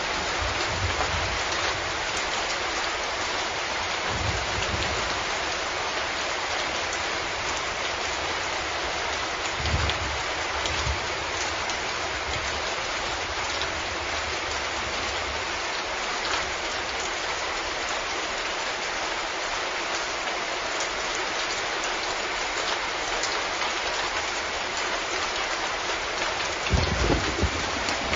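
Steady heavy rain falling, an even dense hiss of drops. A few short low rumbles come through, the strongest near the end.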